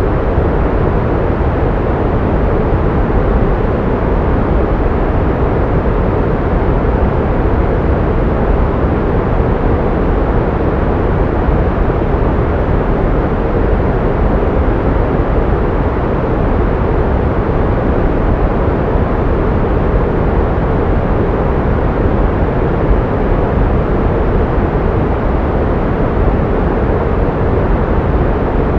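Synthetic pink noise: a steady, unchanging hiss, fuller in the low end than the high.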